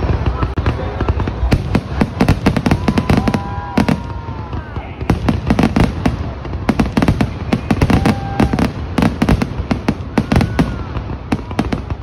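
Fireworks display: aerial shells launching and bursting in quick, irregular succession, many bangs and crackles, with a few short voices from spectators among them.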